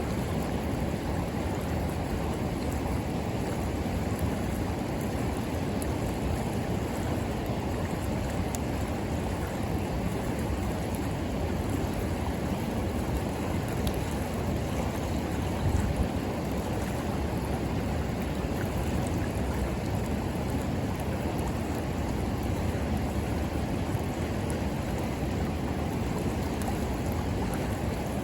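River water rushing steadily, with a few faint crackles from a wood bonfire.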